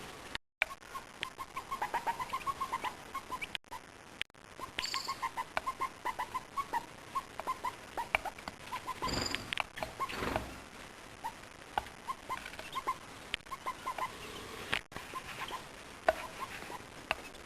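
Birds calling in short, quick notes repeated in irregular runs, mixed with scratchy clicks; a brief rustling burst comes about nine seconds in, and the sound cuts out for a moment a few times.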